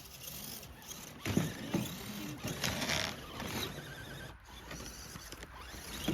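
Radio-controlled crawler trucks' small electric motors and geared drivetrains whirring in short, uneven bursts of throttle.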